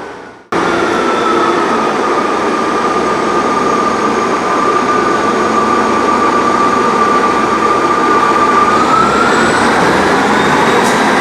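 Diesel multiple unit running at the platform: a steady engine and transmission noise with a whine that starts abruptly about half a second in, holds nearly level, then rises in pitch near the end as the train gathers speed.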